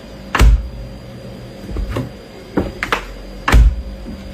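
A series of about five sharp knocks and thumps, irregularly spaced. The two heaviest, deep thuds come about half a second in and near the end.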